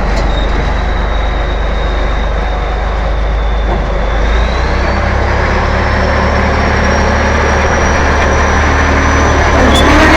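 Freshly overhauled T-11.01 bulldozer's diesel engine running steadily, with a thin high whine over the heavy engine note. About halfway through, the engine note shifts and the whine rises in pitch.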